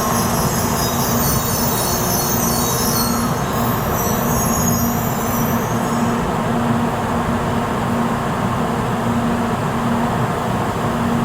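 Shinkansen train at a station platform: a steady rumble with a constant hum, and a high hiss that fades about six seconds in.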